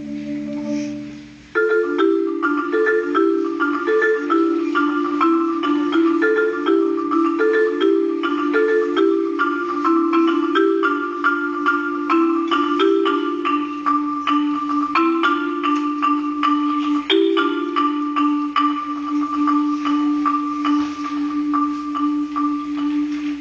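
Solo marimba played with mallets: a held chord dies away, then about a second and a half in a loud passage of fast rolled notes enters, moving in a short repeating pattern. For the last several seconds it settles into one long roll on a single note.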